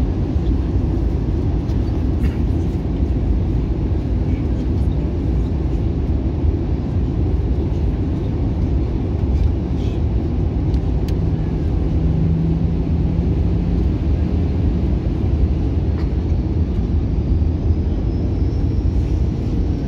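Steady cabin noise of an Airbus A321-200 in flight: a deep, even rumble of airflow and engines, with a low hum coming in for a few seconds midway.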